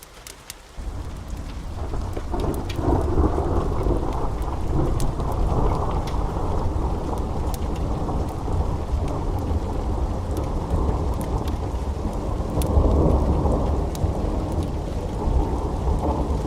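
A long rolling thunderclap over steady rain: the low rumble comes in suddenly about a second in, swells twice and keeps rolling to the end. Scattered sharp crackles sound through it.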